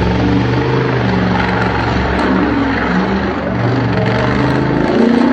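Mega truck's big engine revving, its pitch rising and falling in steps about every second.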